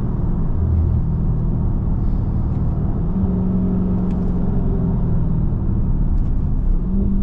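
Exhaust drone of a Dodge Scat Pack's 6.4-litre HEMI V8 with its mid muffler deleted, running steadily while cruising. Its pitch shifts slightly about three seconds in and again near the end.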